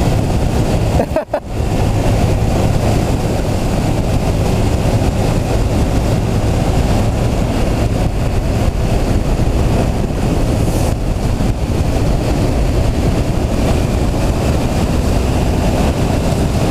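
Motorcycles riding at speed: a steady rush of wind over the microphone with the engines' drone underneath. There is a brief dropout about a second in.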